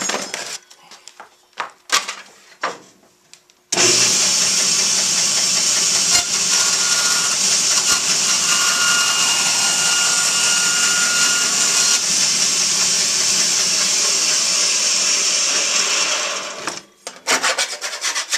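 An electric power tool starts suddenly about four seconds in and runs steadily for about twelve seconds, most likely cutting. Sharp knocks and clicks of handling come before and after it.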